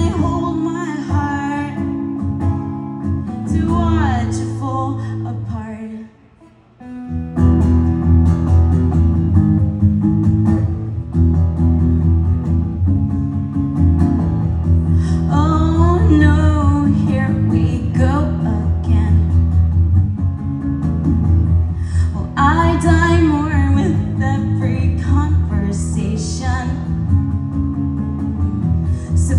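Live rock song: a woman singing over guitar with a heavy bass-and-chord backing. The music cuts out briefly about six seconds in, then comes back in and carries on, with the vocal entering in phrases.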